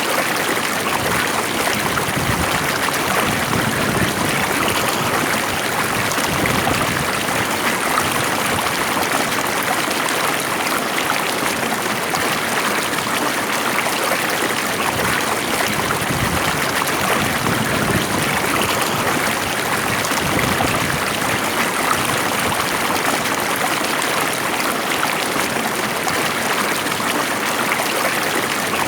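Water flowing steadily in a stream, an even rushing and trickling with no breaks.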